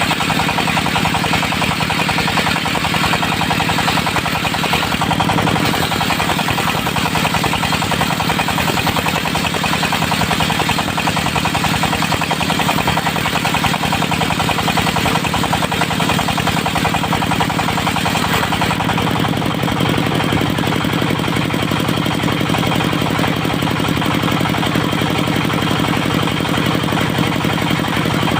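Diesel engine of a portable circular-saw sawmill running steadily. A brighter, noisier upper layer fades out about two-thirds of the way through, leaving the engine's low, even running.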